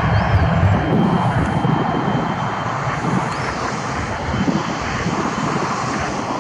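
Cessna Citation XLS+ business jet's twin Pratt & Whitney PW545C turbofans running at high power, a steady rushing jet roar with a faint high whine, slowly fading as the aircraft moves away.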